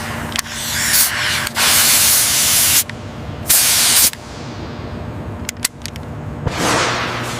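Two loud bursts of hissing, one a little over a second long and one about half a second, over a steady low hum. A few sharp clicks follow, then a softer hiss swells near the end.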